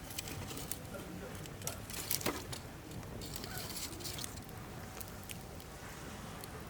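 Wood campfire crackling, with scattered sharp pops from the burning logs and a small cluster of louder snaps about two seconds in.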